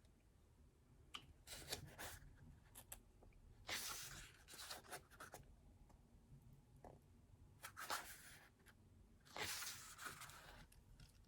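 Pages of a thick album photobook being turned by hand, a few soft paper rustles every couple of seconds.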